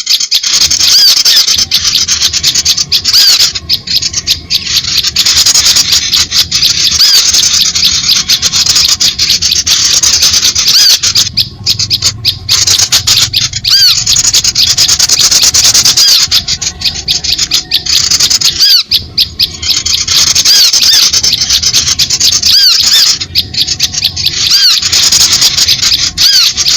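Many small birds chirping and chattering busily all at once, a dense high-pitched din with brief breaks every few seconds, played as a lure call to draw small birds in.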